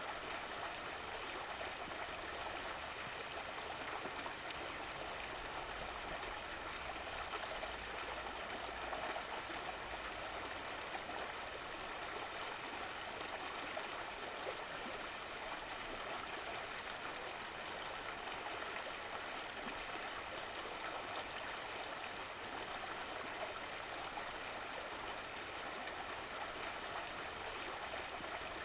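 Running water of a stream flowing and burbling steadily, without a break.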